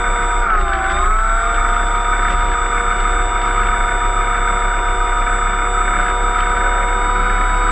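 Electric brushless motor and propeller of a HobbyKing Cessna 182 RC model plane running at steady throttle, a high whine over the hiss of the propeller. The pitch dips briefly about half a second in, as the throttle eases, and climbs back to a steady whine.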